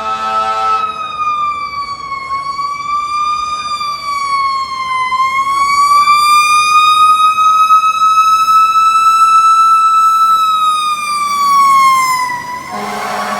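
Fire truck siren sounding a slow wail, its pitch dipping and rising gently around one high note. A horn blast cuts off just under a second in, and another starts near the end as the siren winds down.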